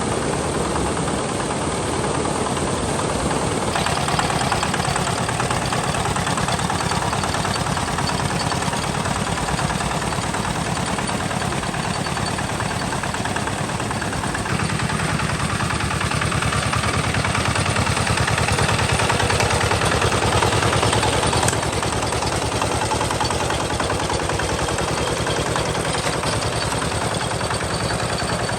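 Tractor engine running steadily with a fast, even beat. Its tone shifts a few times.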